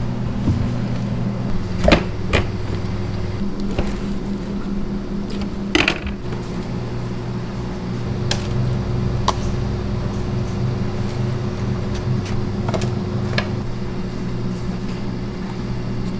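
A steady mechanical hum, with a few sharp clinks and knocks scattered through it.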